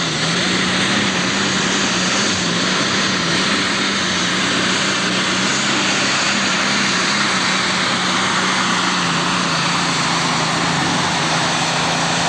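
Turbocharged super stock pulling tractor's engine running flat out at steady high revs during a pull, a steady drone under a loud rushing turbo and exhaust noise.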